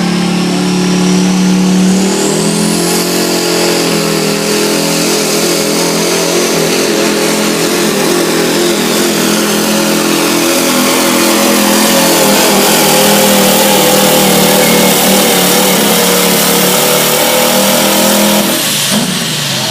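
GMC pulling pickup truck engine held at full throttle, dragging the weight sled down the track on a full-distance pull. A high whine rises over the first few seconds, the engine stays at high revs, and it drops off about a second before the end.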